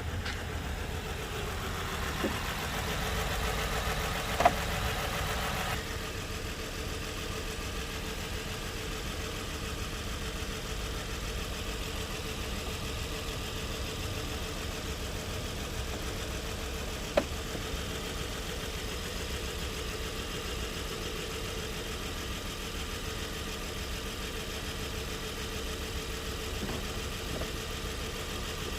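Nissan car engine idling steadily. A brighter hiss rides on it for the first six seconds and stops abruptly, and sharp clicks come a few times, the loudest about four seconds in and another around seventeen seconds.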